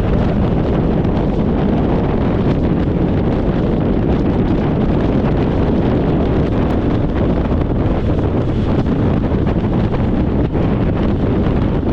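Steady wind rush buffeting the microphone of a motorcycle riding at speed, with the bike's running noise under it.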